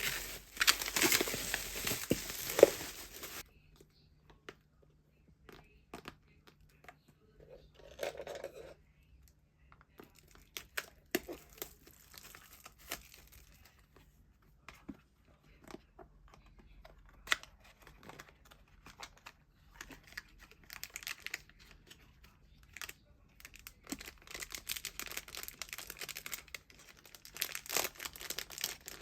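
Plastic packaging being torn open and crinkled, loudest in the first few seconds, followed by scattered clicks and rustles of packaging and items being handled, with a denser burst of rustling near the end.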